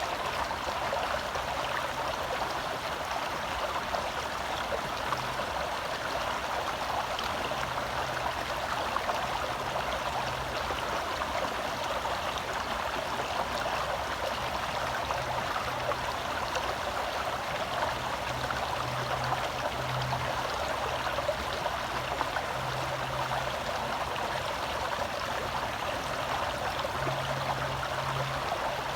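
Small forest stream flowing over rocks, close up: a steady rushing and burbling of water.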